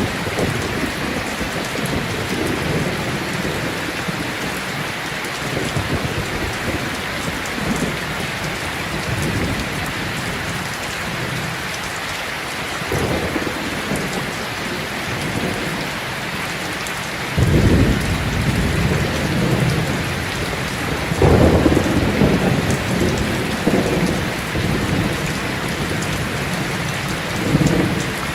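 Steady heavy rain with rolling thunder. The loudest, deepest rumbles of thunder come a little past halfway, again soon after, and once more near the end.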